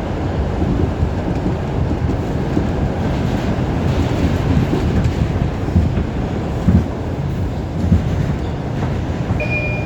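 New York City subway 5 train running at speed through the tunnel, heard from inside the car: a steady low rumble with wheel clatter on the rails and two heavier thumps from the track a little past halfway.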